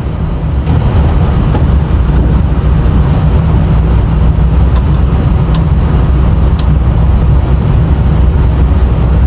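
Airbus A320 cockpit noise while taxiing: a steady low rumble from the engines at idle and the rolling airframe. A few faint clicks sound about a second in and again near the middle.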